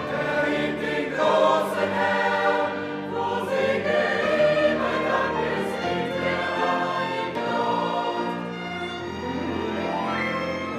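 Background music: a choir singing sustained chords with orchestral accompaniment.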